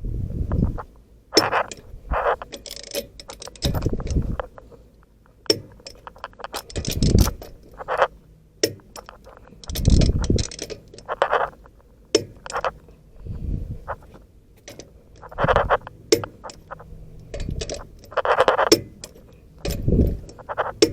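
Hand torque wrench and socket working the lug nuts of a box truck's front wheel: irregular metal clinks, clicks and ratcheting, with several dull knocks in between.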